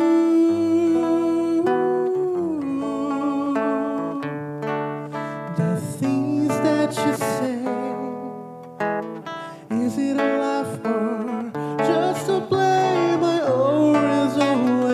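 Acoustic guitar music with a voice singing long held notes without words, sliding between pitches.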